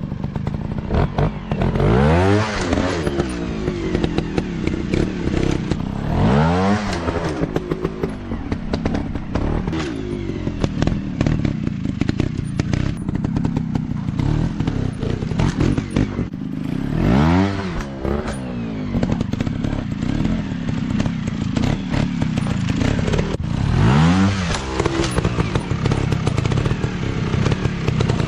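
Dirt bike engine running, blipped up and down in four revving swells, with rattling clicks and knocks in between.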